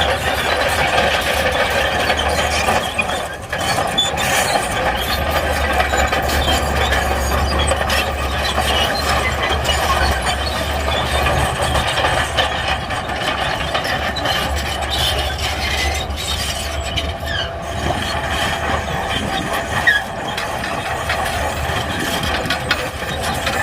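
Shantui crawler bulldozer working: a steady low engine drone under a continuous metallic squeal and rattle from its steel tracks.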